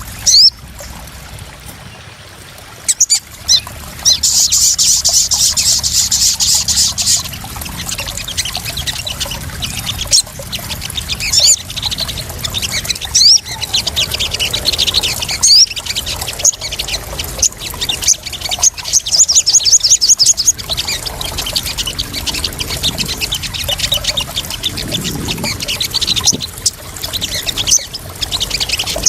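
Sogon birds giving rapid high-pitched chirps and fast twittering trills over continuous splashing, trickling water. This is a lure-and-calming recording of the kind played to sogon birds.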